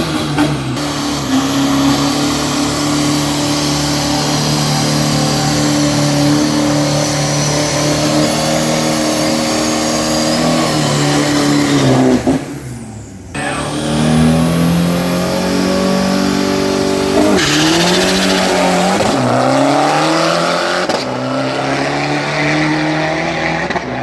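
2,500 cc diesel street pickup running at full throttle on a drag-strip pass. The engine pitch climbs, drops at each gear change and climbs again, with a brief cut in sound about halfway through and several quick shifts near the end.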